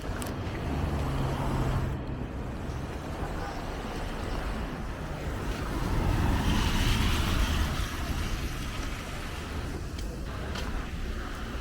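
Street traffic: motor vehicles running nearby, one passing louder for about two seconds around six seconds in.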